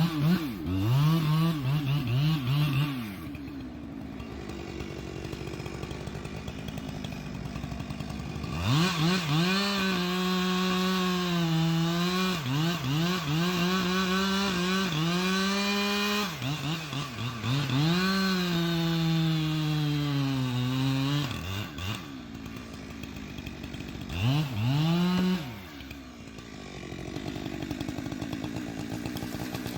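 Husqvarna two-stroke chainsaw cutting white oak: the engine revs up to full throttle and its pitch sags and recovers under load in the cut, then drops back to a lower idle between cuts. There is a short burst at the start, a long cut in the middle and another short burst near the end.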